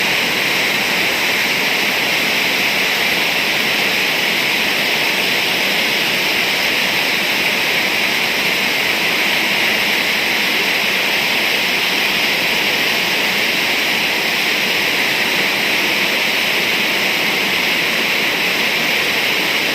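Heavy rain pouring down steadily, an even hiss with no change in strength.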